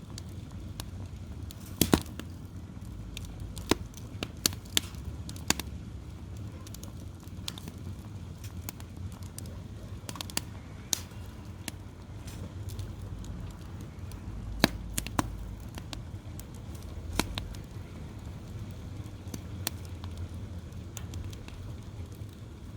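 Wood fire crackling, with irregular sharp pops and snaps a second or more apart, the loudest about two seconds in and near the middle, over a low steady rumble.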